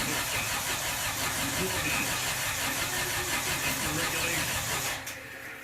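A turbocharged Honda Civic engine being cranked over on the starter without catching, for about five seconds before the key is released and it cuts off suddenly.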